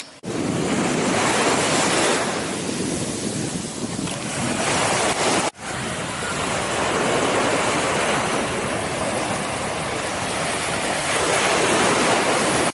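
Surf washing on a beach with heavy wind buffeting the microphone, as a loud, steady rush. The sound breaks off for an instant about five and a half seconds in, then carries on.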